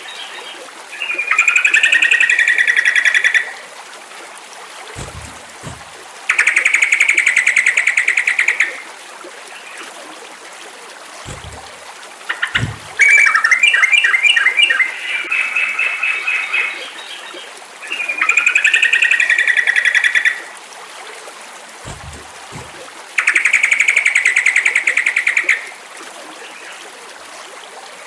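Sooty-headed bulbul (trucukan) song: five loud phrases of two to three seconds each, some trilled and gliding, repeating about every five seconds. Under them is a faint steady hiss, with a few soft low thumps between phrases.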